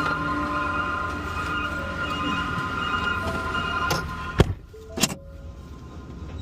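Garbage truck hydraulics whining steadily with several held tones while the load is emptied, broken by two loud clanks about four and a half and five seconds in, after which the whine stops.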